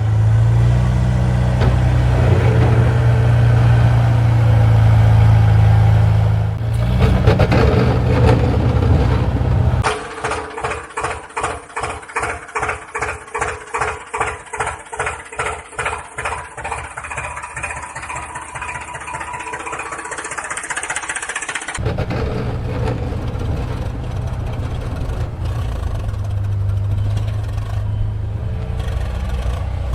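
Engine-like machine noise, changing abruptly between clips: a steady low hum, then a stretch of rhythmic pulsing at about two beats a second, then the steady hum again.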